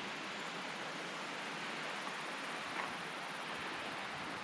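Steady, even rush of a river heard from a distance, a continuous hiss with no breaks.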